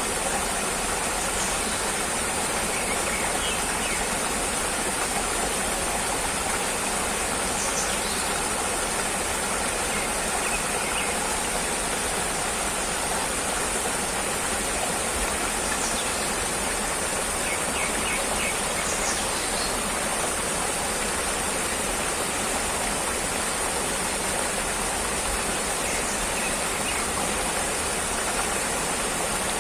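Steady, unbroken rushing noise at an even level, with a constant high hiss above it and a few faint, brief chirps now and then.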